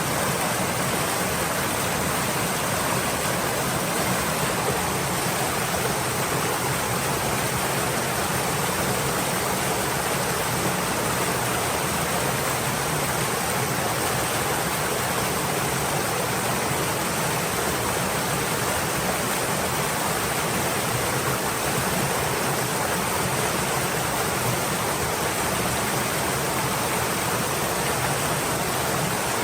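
Stream water flowing in a steady, even rush with no change.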